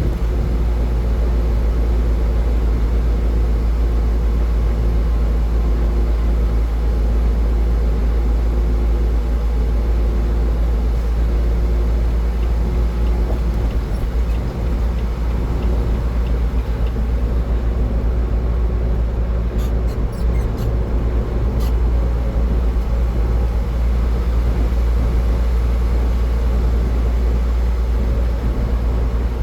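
Steady low road rumble of a car driving at highway speed, with tyre and engine noise and no change in pace; a few faint ticks about two-thirds of the way through.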